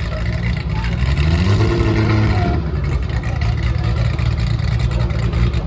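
Car engine accelerating hard: its pitch climbs from about a second in and levels off about two and a half seconds in, over steady road and wind noise.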